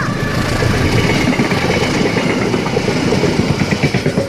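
Diesel locomotive passing close by, its engine running with a heavy low rumble. About three seconds in, the regular clatter of wheels over rail joints starts to come through.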